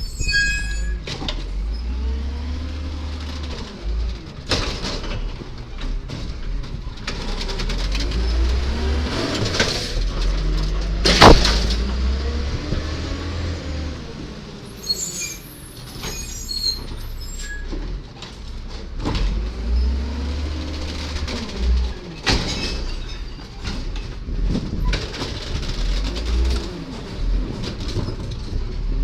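1999 Volvo diesel garbage truck with an Amrep Octo automated side-loader body, its engine revving up and down again and again as it works. There is a sharp bang about eleven seconds in, other knocks, and brief high squeals in the middle.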